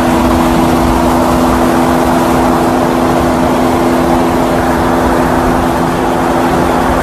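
Vehicle noise: a loud, steady rush with a constant two-note drone that holds without rising or falling.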